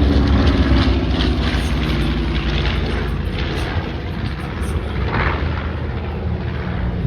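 Propeller warbird's piston engine droning away after a low pass, growing steadily fainter.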